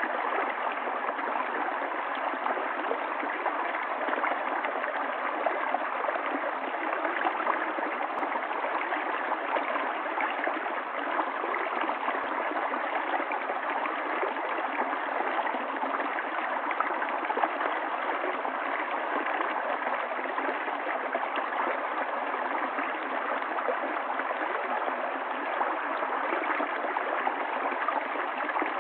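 Running water of a stream, a steady, even rush that never lets up.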